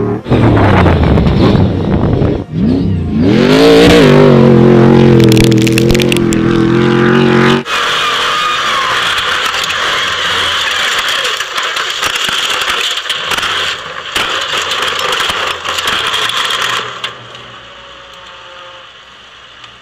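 Stadium Super Truck engine revving hard and holding high revs. It cuts off suddenly about eight seconds in, and a steady hiss with rattling takes over, fading away near the end.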